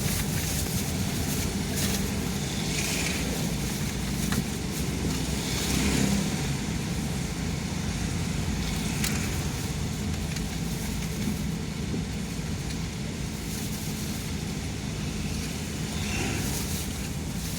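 Car driving along a city avenue: steady engine and road noise with a low hum, and a few faint swells of passing sound.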